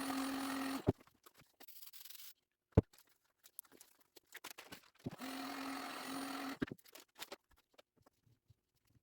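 A small motor runs in two short bursts of about a second and a half, one at the start and one about five seconds in, each a steady hum with hiss. A single sharp click comes between them, with light handling noises around.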